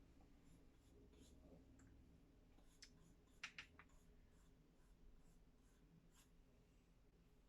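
Near silence with the faint scratching and small clicks of paintbrushes working on a wooden birdhouse; a short cluster of clicks about three and a half seconds in is the loudest.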